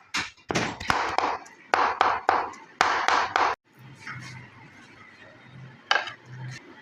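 Knife chopping boneless chicken on a cutting board to make mince: about a dozen sharp chops, roughly three a second, that stop after about three and a half seconds, followed by a few fainter knocks.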